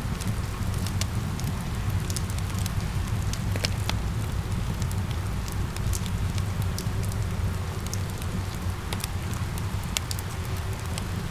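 Steady rain hiss mixed with a crackling wood fire, its sharp pops and snaps scattered irregularly over a low, even rumble.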